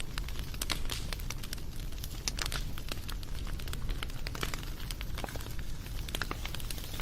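Wood fire crackling: many sharp pops and snaps, several a second, over a steady low rumble.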